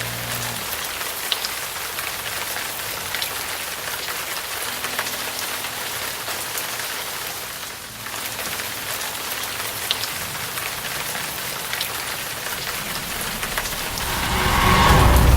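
Heavy rain pouring steadily, a dense even hiss with scattered drop ticks. Near the end a low rumble of thunder swells up and grows loud.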